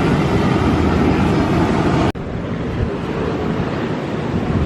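Wind rushing over the microphone with ocean surf, a steady loud noise that drops out for an instant about two seconds in.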